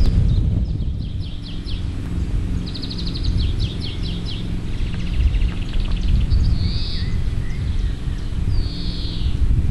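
Songbirds singing in rapid trills, repeated chirps and short buzzy phrases over a heavy low rumble that runs throughout.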